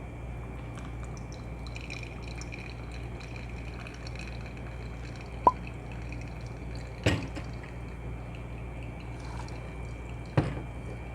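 Pour-over coffee dripping through the filter, a low steady trickle with a single bright drip about five seconds in. Two light knocks sound about seven and ten seconds in.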